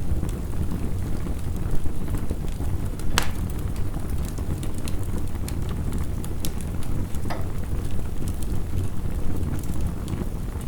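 Wood fire crackling with scattered sharp pops, one loud pop about three seconds in, over a steady low rush of heavy rain.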